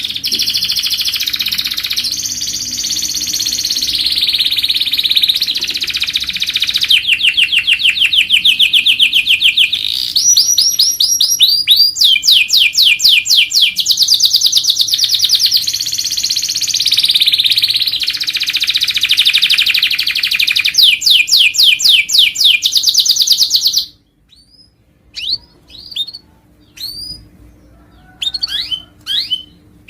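Domestic canary singing a long, loud song of fast rolling trills and repeated phrases, which breaks off suddenly, leaving only a few short, scattered chirps near the end.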